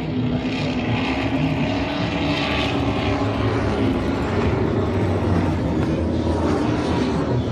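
Steady drone of a large engine, holding a fairly even pitch with a slight shift near the end.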